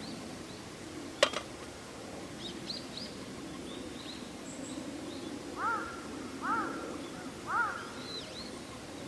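Wild birds calling: a few short high chirps, then three louder arched calls about a second apart, then more high chirps near the end, over a steady low background hum. A single sharp click or knock sounds about a second in.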